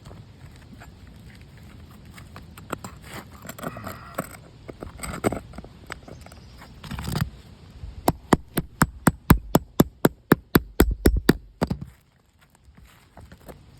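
Small pry bar scraping and prying at asphalt roof shingles, then a quick run of sharp metal taps, about six a second, for some three seconds, stopping suddenly.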